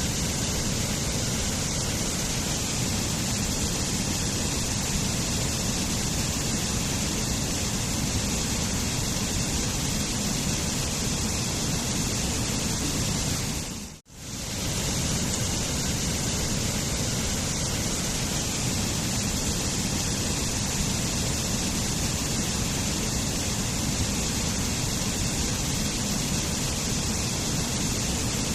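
Waterfall rushing, a steady even roar of falling water. About halfway through it fades out briefly to near silence and swells back in, the seam of a looped recording.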